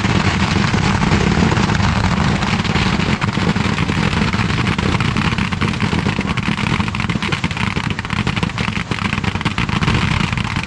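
Fireworks display going off in a dense, continuous barrage: rapid crackling over a steady low rumble, with no gaps between the bursts.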